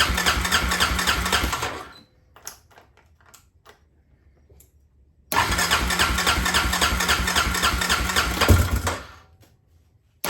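Suzuki Eiger 400 ATV's new electric starter cranking its single-cylinder engine in two bursts of a few seconds each, with a few light clicks in the pause between. The engine does not catch and run, with the carburettor intake boot still loose.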